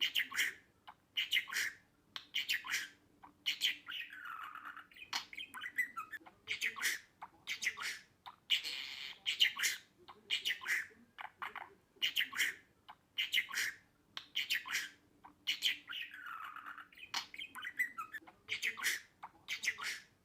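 Budgerigar chirping and chattering: a quick string of short, sharp squawks and chirps with a few warbling glides, the same sequence repeating about every twelve seconds.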